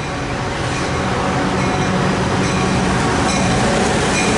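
Caltrain F40PH-2 diesel locomotive, an EMD 16-645 V16 two-stroke engine, running with its gallery cars as the train pulls into the station. The engine drone is steady and grows a little louder as it nears.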